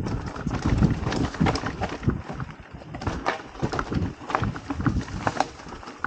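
Mountain bike riding over rough dirt trail: irregular rattling knocks and clicks from the bike over a rumble of tyres on ground.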